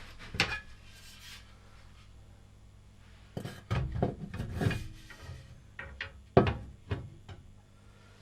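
Workshop handling noises: hard parts or tools knocking, clattering and scraping on a bench. There is one sharp knock near the start, a busy run of clatter in the middle and another sharp knock near the end, over a faint steady hum.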